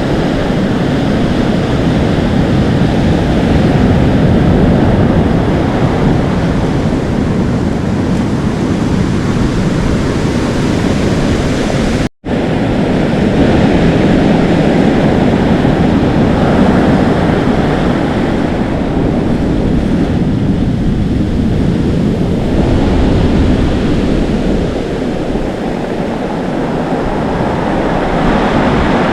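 Atlantic Ocean surf washing and foaming continuously, with wind rumbling on the microphone and slow swells in loudness. The sound cuts out completely for a split second about twelve seconds in.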